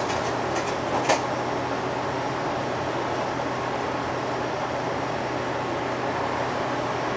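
Steady running noise inside a UD Space Runner RA (PKG-RA274KAN) city bus on the move: the drive train's steady drone under road and ventilation noise, with a brief click about a second in.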